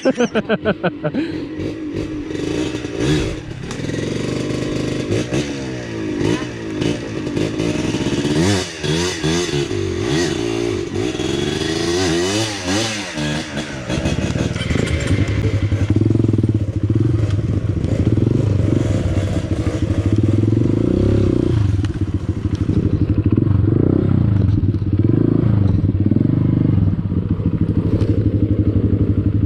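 Honda CRF150L single-cylinder four-stroke dirt bike engine revving up and down as it is ridden over a rough trail, with the clatter and knocks of the bike over the ground. About halfway through the engine settles into a lower, steadier note.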